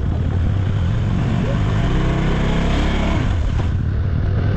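Motorcycle ride with a steady low wind-and-road rumble. An engine tone swells from about a second and a half in and cuts off at about three and a half seconds.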